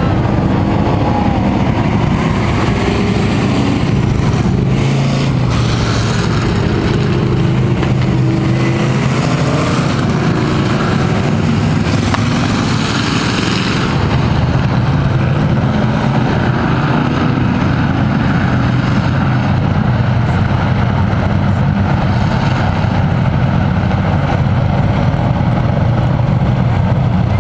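Engines of a pack of race trucks running at a steady, moderate pace-lap speed under caution. Two louder swells come as trucks pass close by.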